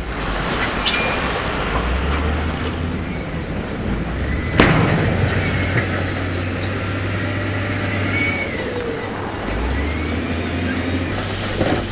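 Diesel heavy earthmoving machinery running, its engine pitch shifting, with faint squeals and metallic knocks as it works stone. One sharp, loud knock comes about four and a half seconds in.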